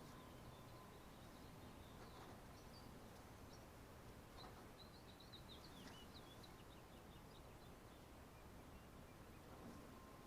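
Near silence with faint bird chirps in the background, busiest about halfway through.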